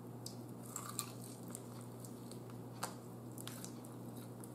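Faint close-up chewing of fried chicken wing, with a few scattered soft clicks and crackles from the mouth, the sharpest a little before three seconds in.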